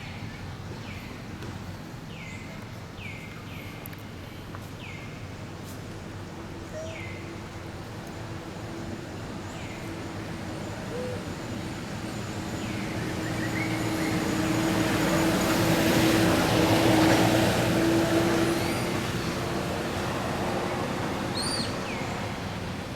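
A motor vehicle approaches and passes, its engine hum and tyre noise swelling to a peak about two-thirds of the way through, then fading. Repeated short, falling bird chirps sound at the start, with a few more near the end.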